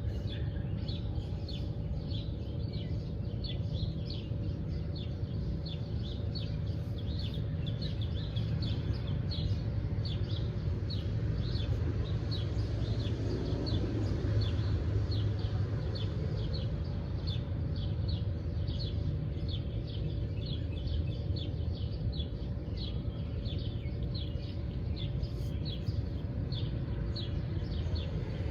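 Birds chirping outdoors, short high chirps repeating about twice a second without a break, over a steady low rumble and a faint steady hum.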